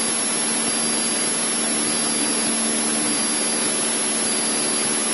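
Cessna 152's four-cylinder Lycoming engine and propeller droning steadily in cruise flight, heard in the cockpit: an even hiss with a steady low hum.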